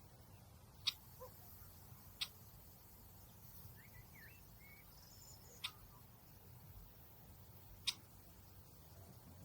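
Outdoor nature ambience: four sharp, very short chirps or ticks spaced one to three seconds apart, with a few faint, brief gliding calls in the middle, over a faint steady low rumble.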